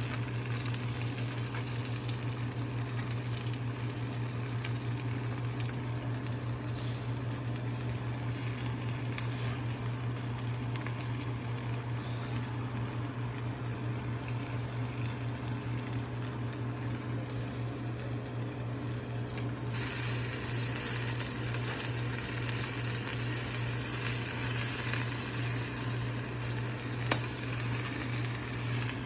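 A steady hiss over a low hum, with the hiss growing louder about twenty seconds in.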